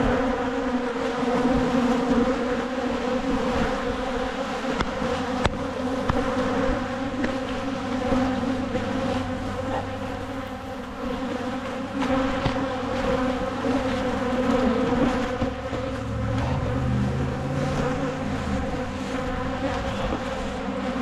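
Honeybees buzzing in large numbers around an open hive, a steady drone of several overlapping pitches; the colony is agitated and defensive, stinging hard.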